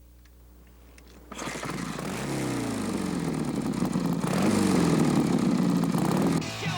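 Motorcycle engine starting a little over a second in, then revving, its pitch rising and falling a couple of times before holding steadier.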